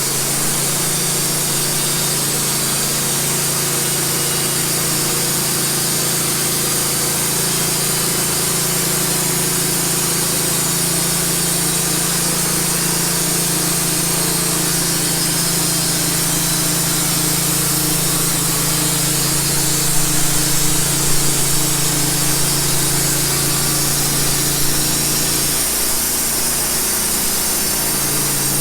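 Wood-Mizer LT15 portable bandsaw mill running steadily, its band blade sawing through a cedar log: an even engine drone under a high hiss from the cut. The engine note dips briefly near the end.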